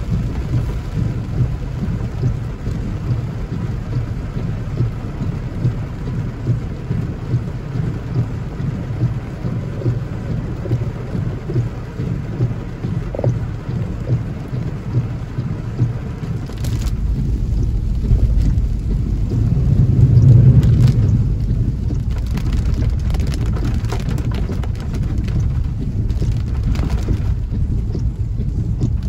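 Heavy rain drumming on a vehicle's roof and windshield, heard from inside the car, over a steady low rumble. A deeper rumble swells and fades about two-thirds of the way through, and a few short knocks come near the end.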